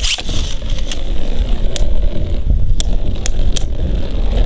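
Beyblade spinning tops whirring and scraping around a plastic stadium, with sharp clacks as they collide, the first hard hit right at the start and a quick cluster of three near the end.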